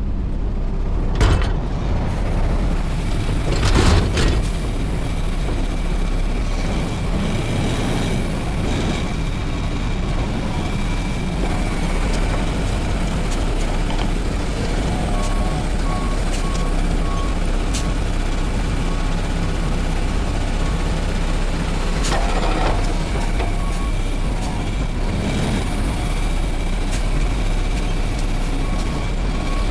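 Garbage truck's diesel engine running steadily, with a few knocks and a series of short, evenly spaced beeps partway through and again near the end.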